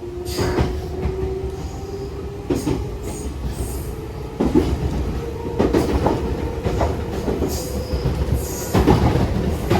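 Nankai 6000 series electric train running, with a whine that rises slowly in pitch as the train gathers speed. The wheels clack over rail joints every second or so.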